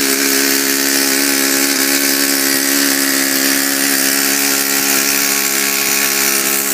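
Kalt 45 model four-stroke glow engine, about 35 years old, running steadily at constant speed with a high buzzing note and a lot of hiss.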